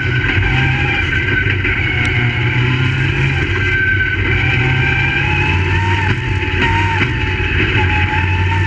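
Crate Late Model race cars' V8 engines running steadily, their pitch wavering slightly up and down.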